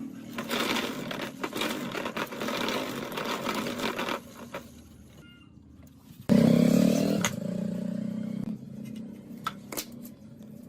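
Scraping and handling noises with scattered clicks for a few seconds. About six seconds in, a steady mechanical hum comes on suddenly, loud at first, then drops to a lower level and fades about two seconds later.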